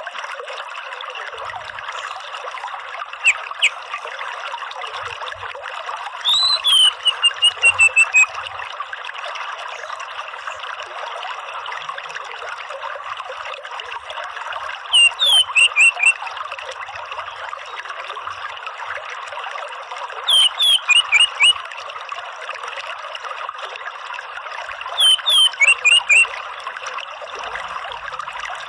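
Orange-headed thrush calling over a steady trickling-water background. Four phrases come roughly every five seconds, each a high falling note followed by a quick run of short notes.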